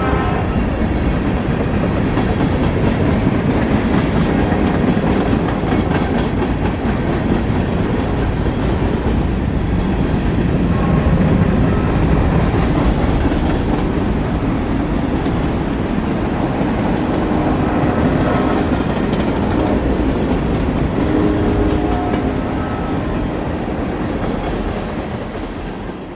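Freight train cars rolling past close by: a steady rumble and clatter of steel wheels on the rails, fading out near the end.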